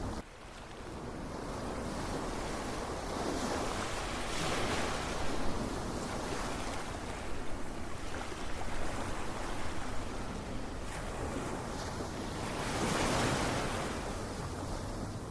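Ocean surf: a steady wash of waves with a low rumble, dipping briefly just after the start, then swelling as waves break, once around five seconds in and again near the end.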